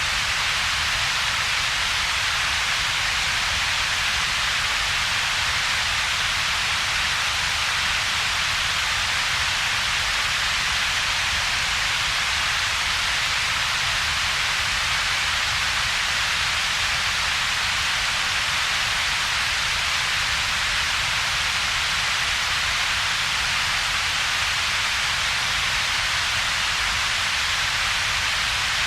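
Synthetic double-peaked noise: a steady, unchanging hiss, strongest in a broad upper band, with a weaker low rumble band beneath and a gap between the two.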